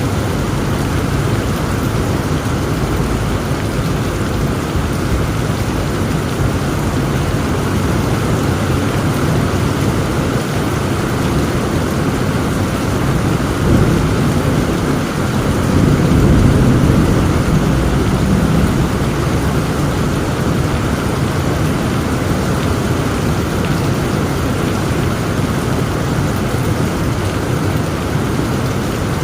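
Heavy rain falling steadily, with a low roll of thunder building about halfway through and fading out a few seconds later.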